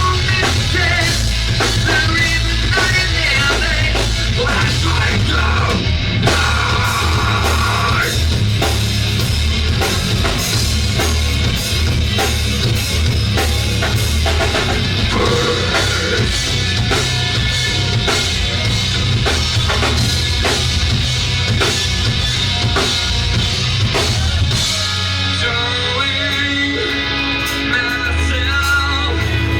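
Live rock band playing loud, with a drum kit beat driving over bass and guitar. About 25 seconds in the drumming thins out and the low notes are held longer.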